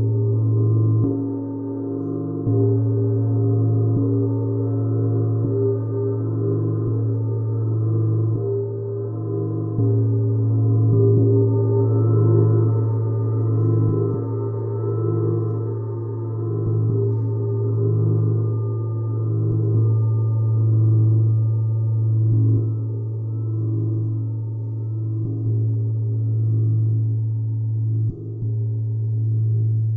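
Gong played softly and continuously: a steady low hum with overtones that swell and fade in slow pulses, and faint light strikes now and then.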